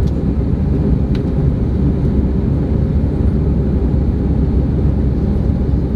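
Airbus A318 airliner's jet engines and airflow at high power, a loud, steady low rumble heard from inside the passenger cabin.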